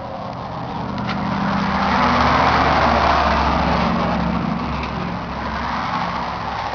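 John Deere 8400 tractor's six-cylinder diesel engine running, growing louder to a peak about two to three seconds in and then easing off.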